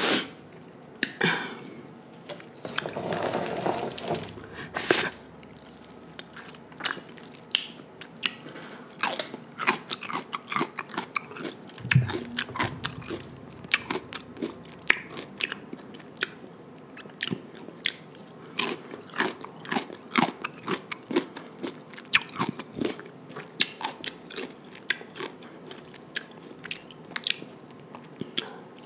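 Close-miked chewing of a king crab seafood boil: steady mouth sounds with many small wet clicks and crunches, and one louder low thump about twelve seconds in.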